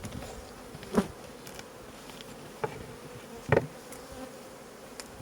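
Honeybees buzzing steadily around an open hive, with three short knocks about a second, two and a half and three and a half seconds in.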